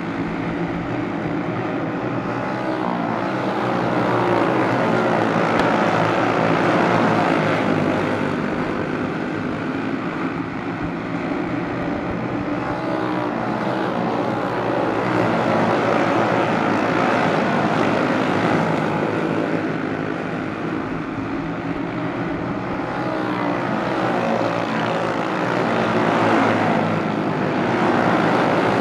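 A pack of racing karts with Briggs & Stratton Animal single-cylinder four-stroke engines running hard around the track, several engine notes rising and falling together. The sound swells and fades every several seconds as the field passes by.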